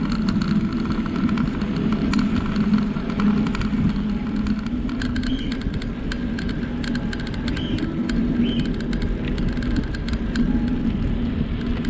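Steady rumble of a bicycle ride along a trail, tyre and wind noise with many small clicks and rattles. A few short high chirps come around the middle.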